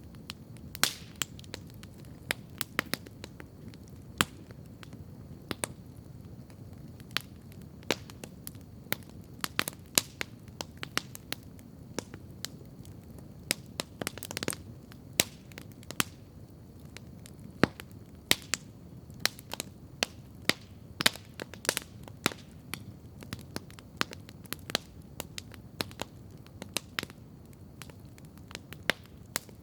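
Wood campfire crackling and popping, sharp irregular snaps over a steady low rumble of the flames, with a brief flurry of crackles about halfway through.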